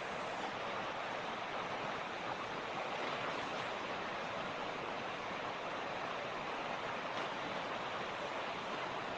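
Mountain creek flowing steadily over rocks, a continuous rushing of water.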